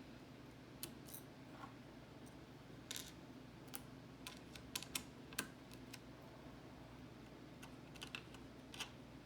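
Scattered small clicks and taps of hand work on a motherboard, as the M.2 slot's metal heatsink and its screws are taken off, with the loudest clicks near the middle.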